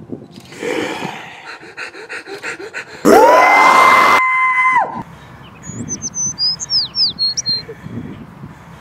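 A sudden, very loud blast of noise about three seconds in, with a steady whistling tone that rises into place and cuts off abruptly after about a second and a half. A few seconds later, birds chirp briefly.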